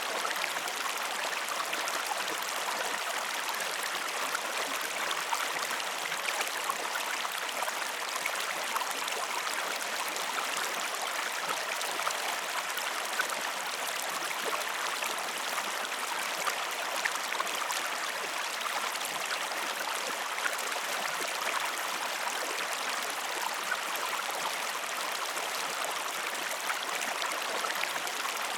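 Steady flowing water of a stream, an even rushing hiss with small drip-like ticks now and then.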